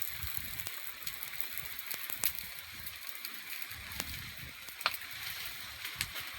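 Wood campfire crackling: a steady hiss with a few sharp pops scattered through it.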